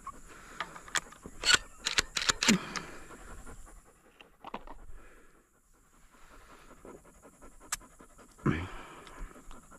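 Dog panting: a quick run of breaths about a second in, then a few scattered breaths and a longer breathy one near the end.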